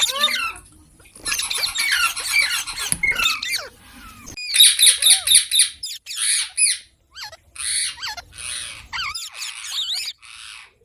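Parrots squawking and chattering: a dense burst of overlapping chirps and chatter, then a string of short, harsh squawks repeated about twice a second.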